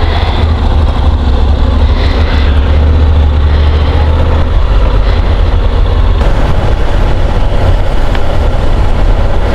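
Honda NC750 DCT motorcycle under way: steady engine and road noise under a heavy, constant wind rumble on the microphone.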